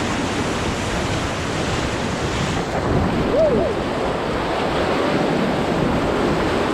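Whitewater rushing around a paddle raft running a rapid, a steady loud rush with wind buffeting the microphone.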